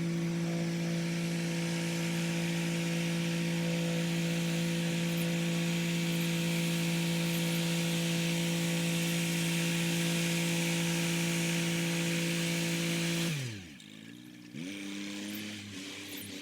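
Kubota SL35 tractor with its rotary tiller running steadily at working speed, a loud engine drone with a steady whine. About thirteen seconds in, the revs fall away sharply and it goes much quieter. Soon after, the engine runs on at a lower, unsteady speed.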